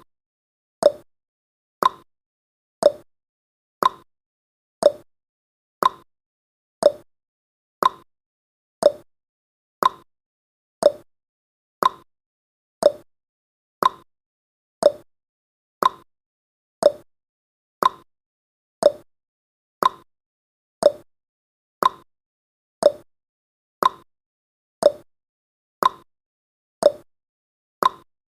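Countdown timer's clock-tick sound effect: one short, sharp tick each second, alternating between two pitches like a tick-tock.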